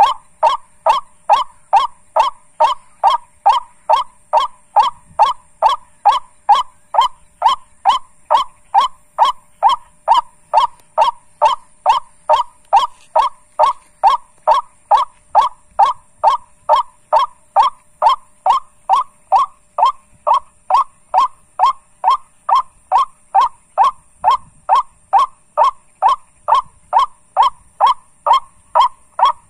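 Bird-call lure sounding the call of a white-breasted waterhen: one short honking note repeated very evenly, about twice a second, to draw the birds in.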